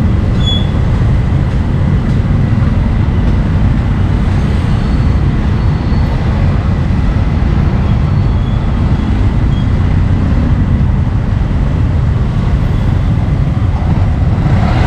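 Steady, loud low rumble of street traffic noise, with a faint thin steady whine and a few brief faint high chirps.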